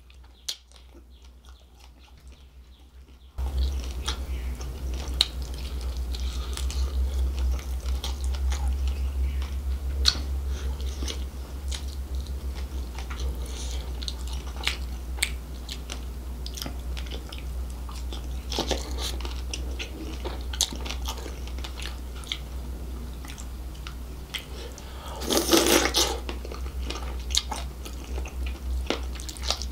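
Close-miked chewing and wet mouth sounds of a person eating seafood in spicy gravy, with many small crunches and clicks. It is quieter for the first few seconds, and there is one louder, noisier burst near the end.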